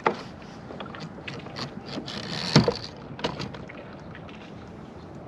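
A kayak moving on the water: a steady rush of water and wind noise, with several short knocks and clunks against the hull, the loudest about two and a half seconds in.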